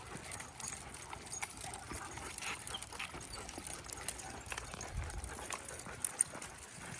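A pack of dogs walking on leashes: irregular light clicking of paws and claws with jingling of collar tags and leash hardware.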